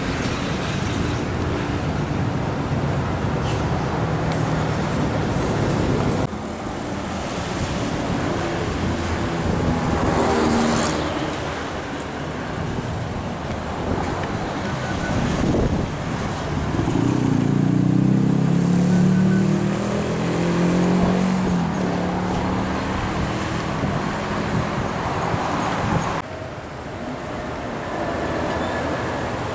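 Road traffic with heavy trucks passing, their engines droning; the loudest is a low truck engine going by about two-thirds of the way through. The sound changes abruptly twice, at cuts between shots.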